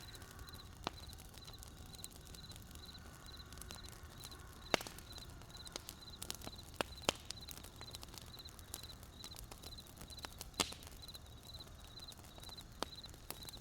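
Campfire wood crackling with sharp irregular pops, the two loudest about five and ten and a half seconds in, over a low rumble of the fire. A cricket chirps steadily, about two chirps a second.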